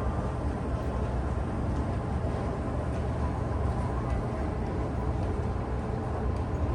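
Steady low rumble of running machinery, unchanging throughout.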